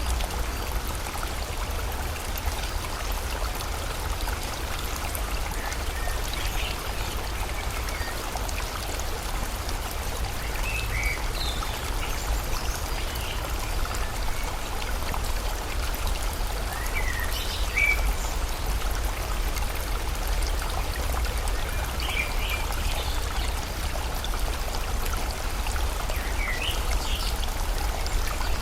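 Steady rush of flowing river water, with short high bird chirps every few seconds.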